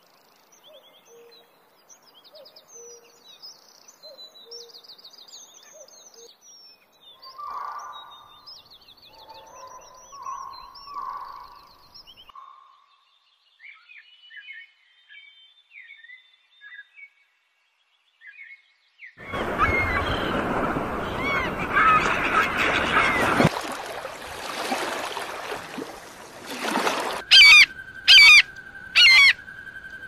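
Wild birdsong from several birds: scattered chirps, trills and short whistles. About 19 seconds in, a loud rushing noise begins with many bird calls over it. Near the end come three loud, harsh calls over a steady whistling tone.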